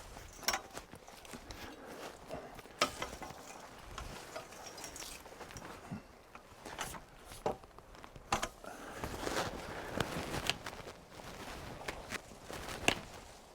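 Rustling of leaves and brush, footsteps and scattered sharp snaps and cracks of twigs and wood as a half-cut small tree is pulled over at its hinge. The snaps come irregularly; the loudest are about half a second in, about three seconds in and near the end.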